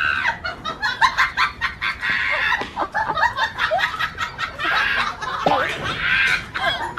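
Chickens, a rooster among them, clucking in a rapid series of short calls, with longer drawn-out calls at the start and again near the end.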